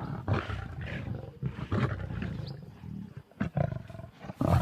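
Lions snarling and roaring in short irregular bursts as they fight over a warthog kill, with a louder outburst near the end.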